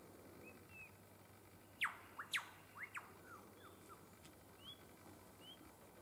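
Wild birds calling: a quick run of sharp, falling whistled notes about two seconds in, with a few short, soft rising chirps scattered before and after.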